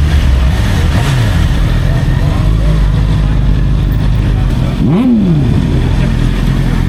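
Motorcycle engine idling steadily, with a small rev about a second in and a sharp, quick throttle blip about five seconds in.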